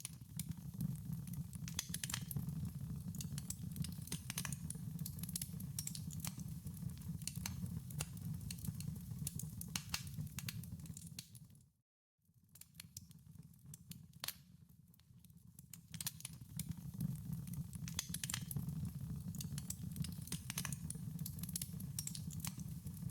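Wood fire in a fireplace crackling, with frequent irregular pops and snaps over a low, steady rumble of flame. About halfway through it fades out to a moment of silence, then gradually fades back in.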